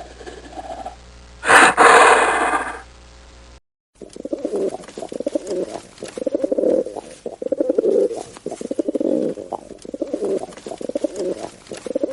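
A loud, harsh animal call about two seconds in, then after a brief break a run of low bird cooing, repeated phrase after phrase.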